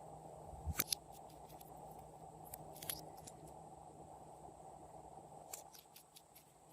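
Slime being handled: a few soft, sharp sticky clicks and pops over a steady low hiss.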